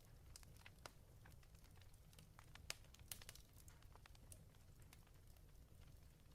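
Faint fireplace fire crackling: irregular sharp pops and snaps over a low steady rumble.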